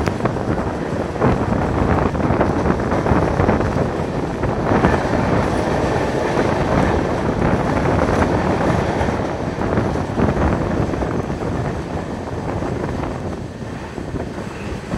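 Passenger train running at speed, heard from aboard: a steady rumble of wheels on rails with irregular clicks and clacks over the rail joints, easing a little near the end.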